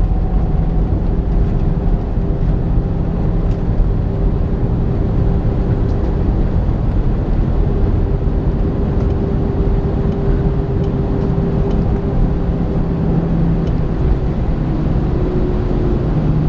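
Steady cabin noise inside an Airbus A318 at the end of its flight: a heavy low rumble from the engines and airframe, with a steady engine hum whose pitch shifts slightly near the end.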